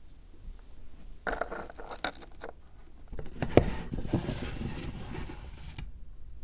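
Dry handcrafting noises from work on a miniature diorama: a short crackly scraping rustle, then a sharp knock about halfway through, followed by a longer dry scraping hiss that stops near the end.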